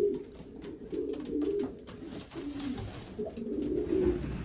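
Racing pigeon cock cooing to his hen at the nest box: a series of low, wavering coo phrases with short pauses between them.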